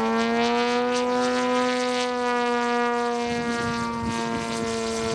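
Gasoline engine of a 35% scale OMP Hobby Edge 540 RC aerobatic plane, a GP 123 on MTW tuned pipes, running steadily in flight. Its pitch swells slightly and eases back down.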